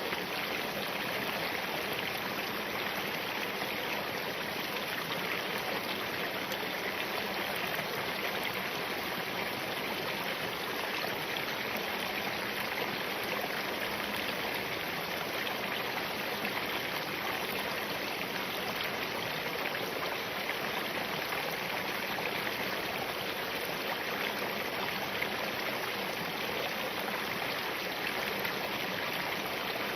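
Spring-fed mountain stream flowing over rocks: a steady, even rush of running water.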